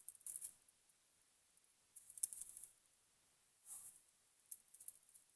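Faint metallic clicks and scrapes in four or five short bursts: a steel feeler gauge being slid into the end gap of a piston ring set in the cylinder bore to measure the gap.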